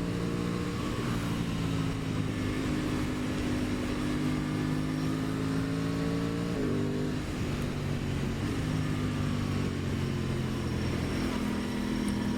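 2023 Aprilia Tuono 660's parallel-twin engine pulling at fairly steady revs on a steep uphill climb, with a brief change in pitch about halfway through, under a haze of wind and road noise.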